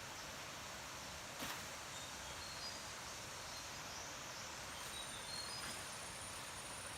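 Steady outdoor background hiss, with a soft click about one and a half seconds in and a thin high steady tone that comes in about halfway through.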